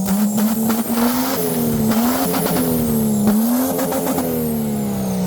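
A vehicle engine held at high revs during a burnout, its pitch surging up and down about three times, over the hiss of tyre squeal.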